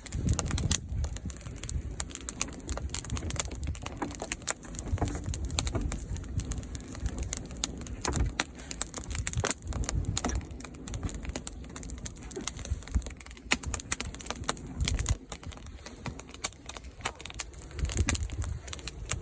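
Wood fire crackling, with dense irregular snaps and pops over a low rumble.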